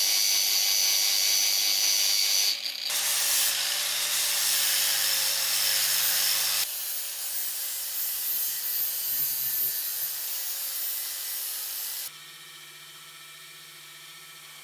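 Power tool abrading metal gun parts: a steady, scratchy noise in several short clips joined with abrupt cuts, the last one much quieter.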